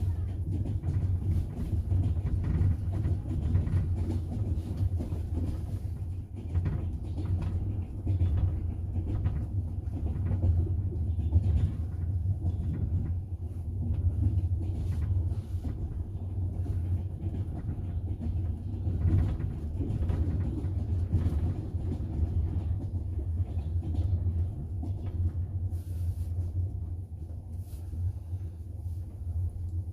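Double-decker passenger train running along the track, heard from inside the carriage: a steady low rumble of wheels on rails with frequent irregular clacks.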